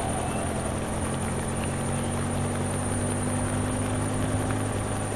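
Steady drone of a helicopter, its engine and rotor hum running on evenly without change.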